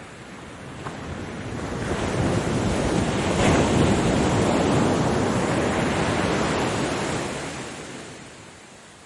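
Ocean wave breaking and washing in: the surf noise swells over about two seconds, holds for several seconds, then dies away near the end.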